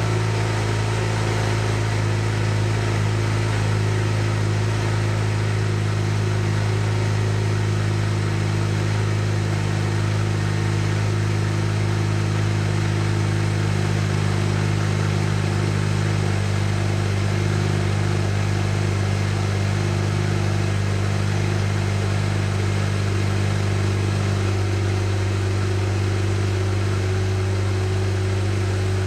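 Mazda RX-7 FC3S's 13B twin-rotor engine idling steadily, with an even, unbroken note.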